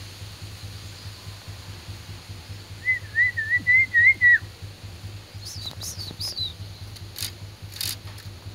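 A wiceh songbird calling: a quick warbling whistle of about eight wavering notes lasting a second and a half, then three short falling high chirps and two sharp high clicks near the end. A steady low hum lies underneath.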